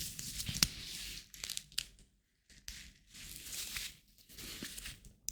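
Close-miked rubbing and crinkling of hands, made for ASMR, in stretches of half a second to a second with a few sharp clicks and a brief pause about two seconds in.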